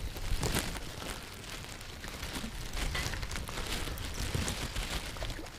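Wind buffeting the microphone as a steady low rumble, with scattered short rustles and clicks over it.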